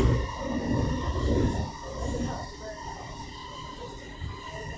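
Electric commuter train interior: low rumble with a steady whine of several fixed tones from its electrical equipment. The rumble is heavier in the first couple of seconds, then settles.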